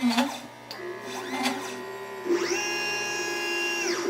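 LitePlacer pick-and-place machine's stepper motors whining as the head moves between parts, each move a pitched whine that rises, holds and falls. Two short moves come early, and a longer one of about a second and a half comes near the end.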